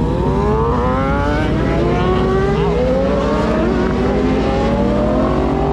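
Motorcycle engine accelerating under the rider, its pitch climbing steeply for about the first second and a half and then rising more slowly, over a steady low rumble.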